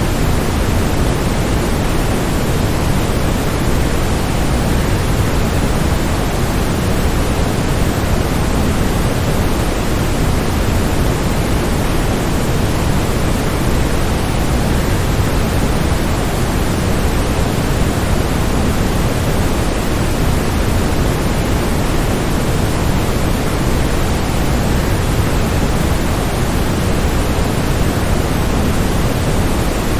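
Steady rushing of a waterfall, an even unbroken wash of noise that is heaviest in the low end, with no separate splashes or changes.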